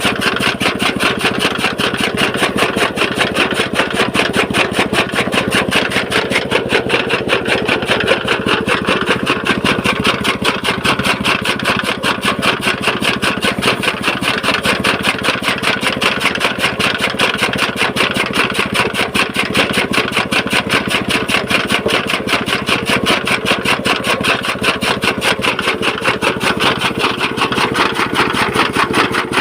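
Petrol engine running steadily with a fast, even beat, powering a toka fodder chaff cutter.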